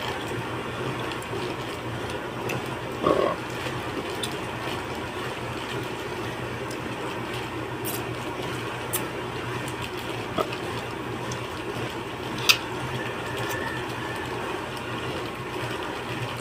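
Eating sounds: chewing and slurping fish soup, with a few sharp clicks of a spoon or utensil, over a steady low hum.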